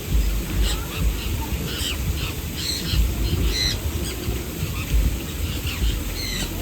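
Small aviary birds chirping, with many short, separate high calls overlapping, over a low rumble with repeated dull thumps.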